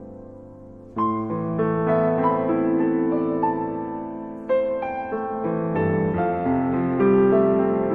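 Background piano music: a held chord fades, then new notes and chords are struck about a second in and again a few seconds later, each ringing on.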